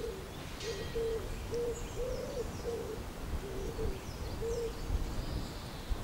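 A bird calling with a run of short, low hooting notes, about two a second, over faint higher chirps from other birds.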